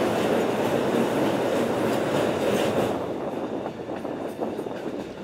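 Train running along the track: a steady rumble that drops in level and loses its higher hiss about three seconds in.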